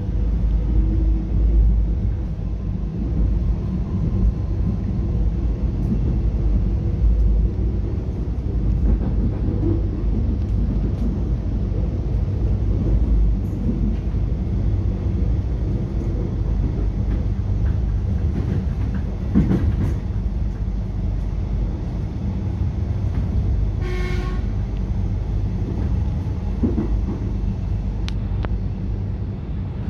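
Steady low rumble and rail noise of an X'Trapolis 100 electric suburban train running at speed, heard from inside the carriage. A short pitched toot sounds once, about three-quarters of the way through.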